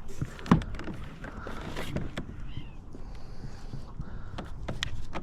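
Irregular knocks and clatter as a smallmouth bass is landed with a landing net in a kayak, with the net and fish bumping against the boat. The loudest knock comes about half a second in.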